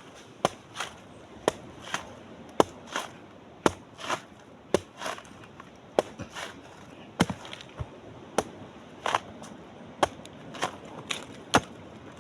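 Repeated chopping blows with a hand tool, about one a second. Each is a sharp strike followed by a short, softer rustle.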